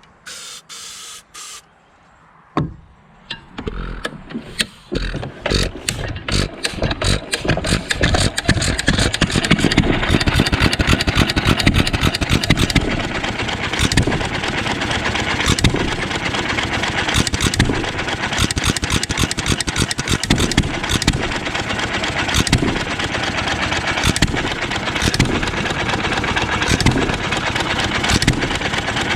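1.5 hp John Deere single-cylinder hit-and-miss stationary engine being started on brake cleaner in place of ether: a sharp first pop, then firing strokes coming faster and faster until it settles into steady running.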